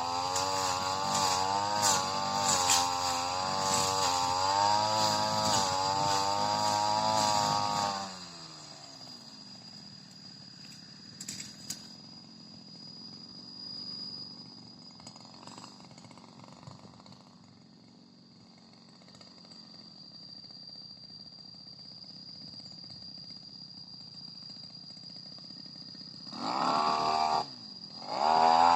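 Supra SPR328 brush cutter engine running under load, its pitch wavering as it cuts grass, then winding down and stopping about eight seconds in. After a lull filled by a steady high insect drone, the engine revs up in two short bursts near the end.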